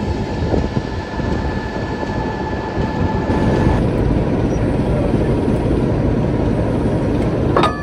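Class 26 diesel locomotive 26043's Sulzer engine running, a steady heavy rumble with a faint high whine on top that stops about halfway through. A brief sharp click sounds near the end.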